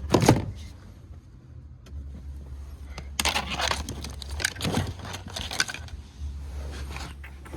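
A thump at the start, then irregular rustling and scraping a few seconds in, over a low steady rumble.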